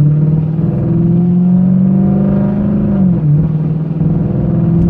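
2005 Lincoln LS's muffler-less exhaust with X-pipe and H-pipe, heard from inside the cabin as the car pulls away gently in drive. The engine note climbs steadily, drops with an upshift about three seconds in, then holds steady: a lot of low end with a little rasp.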